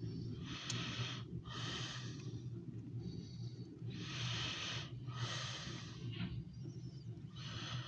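A person breathing close to the microphone: about five airy breaths in and out, coming in pairs, over a steady low hum.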